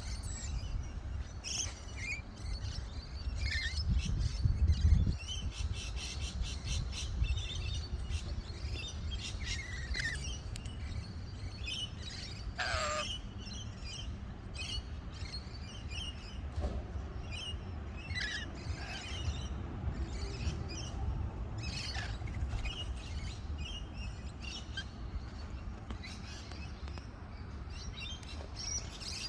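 Lorikeets calling in short, high, screechy chirps scattered throughout. Under them runs a low rumble, loudest about four to five seconds in.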